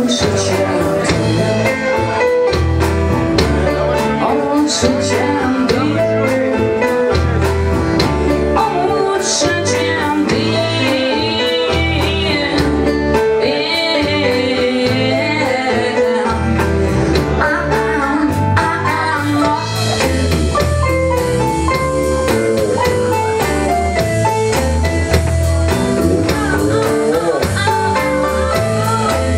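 Rock music: an instrumental passage between sung verses, with electric guitar over a steady drum beat.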